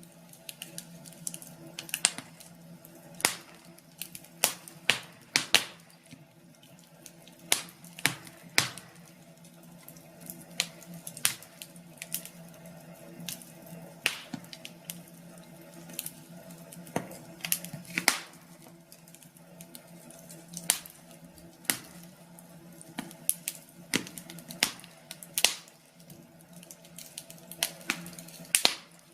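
Wood fire crackling: irregular sharp pops and snaps, the loudest every second or two, over a low steady hum.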